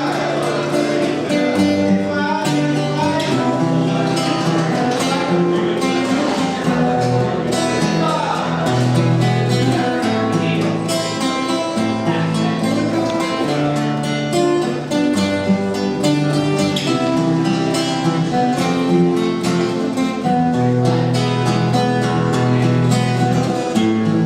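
Acoustic guitar playing an instrumental passage of a song, with a continuous run of picked notes and chords.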